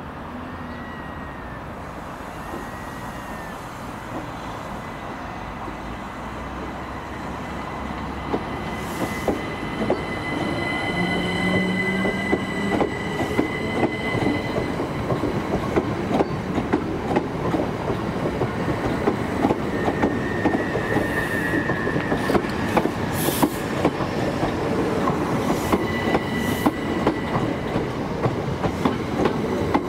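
A Southern Class 377 Electrostar electric multiple unit draws in alongside the platform. It grows louder as it comes near. From about a third of the way in, a rapid train of wheel clicks over the rail joints takes over, with high wheel squeals that come and go.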